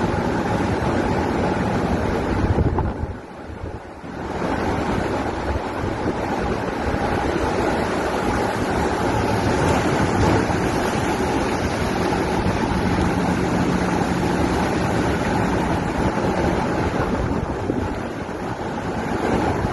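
Heavy sea waves surging and breaking against a pier in a strong gale, with wind buffeting the microphone. There is a brief lull about three seconds in.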